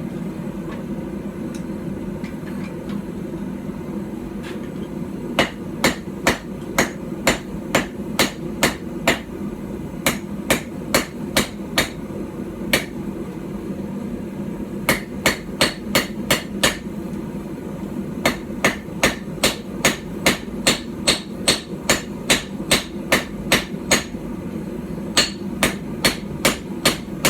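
Light hand-forged hammer of about 12 ounces striking hot steel on a tiny stump anvil. The blows come in runs of about two a second with short pauses between, starting about five seconds in. A steady low hum runs underneath.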